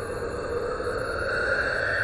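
Monster sound effect: a long, breathy, hissing exhale with no clear pitch, swelling near the end and then starting to fade.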